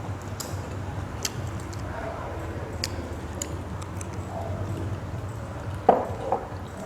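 A person chewing food, with small sharp mouth clicks and smacks over a steady low hum. About six seconds in there is a louder knock, followed shortly by a smaller one.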